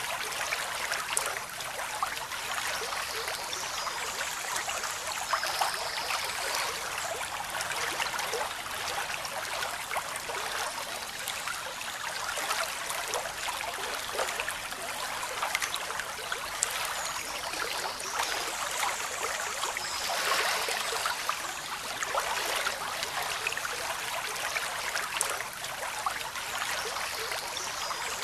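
Flowing water running and splashing steadily.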